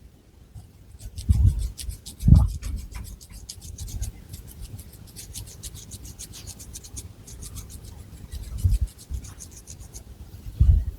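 Long fingernails scratching quickly through long hair and over the scalp in a fast run of short, crisp strokes. A few dull low bumps come in between, about a second in, again at about two seconds, and near the end.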